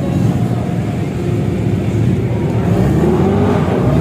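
Vehicle engine running with a steady low drone, with people's voices faintly in the background.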